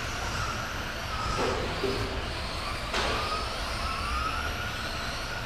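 Radio-controlled racing trucks running on the track, their motors whining with several overlapping pitches that rise and fall as they accelerate and brake. There is a sharp knock about three seconds in.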